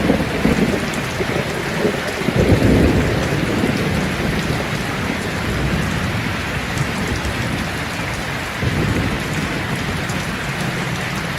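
Steady heavy rain falling, with low thunder rumbling in the first few seconds and dying away.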